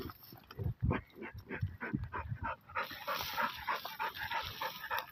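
A dog digging at a burrow in dry earth, letting out a quick run of short whining cries, about four a second, while its paws scrape and thump the dirt.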